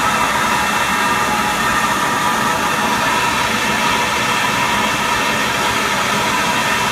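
Industrial parts washer running: a steady mechanical noise with a faint, constant high tone above it.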